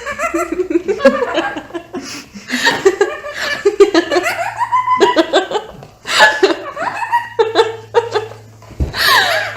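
Laughter in repeated bursts, with a falling squeal-like glide near the end.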